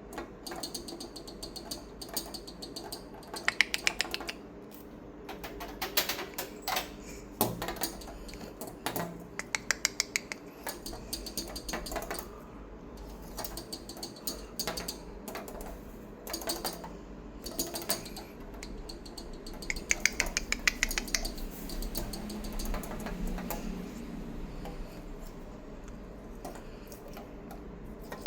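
Bursts of rapid light clicking, each run lasting about a second and recurring every couple of seconds.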